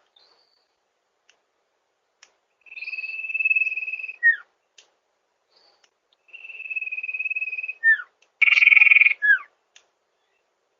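Sirtu bird calling: a long held high note ending in a quick falling note, given twice, then a shorter, harsher and louder note with another falling note near the end. Silence between the calls.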